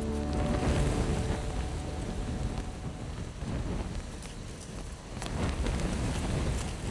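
Strong wind gusting on the microphone, with rumbling buffets and a rushing hiss of blowing grass that ease off about five seconds in and then build again.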